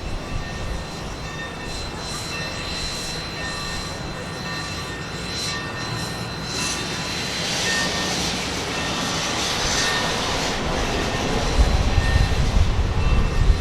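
Train moving on the track, its low rumble growing heavier and louder near the end, with a stretch of hissing around the middle.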